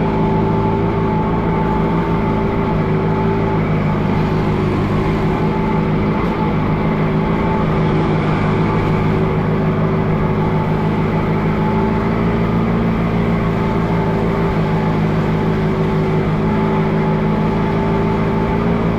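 Allis-Chalmers G tractor's small four-cylinder gasoline engine running at a steady speed as the tractor drives through snow.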